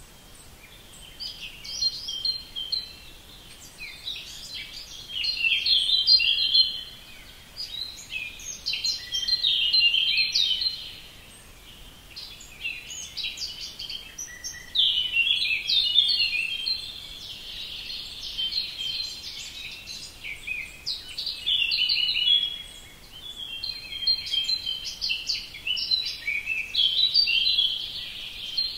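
Songbirds singing: a dense run of short, high chirps and trills that swells and eases every few seconds.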